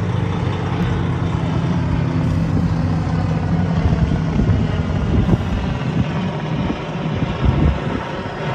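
Aircraft engines running loud and steady, a low droning hum that gives way after a few seconds to a rushing, fluttering noise.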